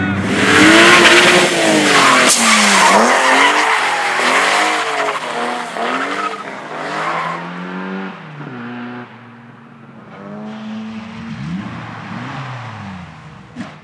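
Race car engine revving up and down again and again as the car slides, with tyres skidding loudly at first; the sound fades as the car moves away. A short sharp knock comes near the end.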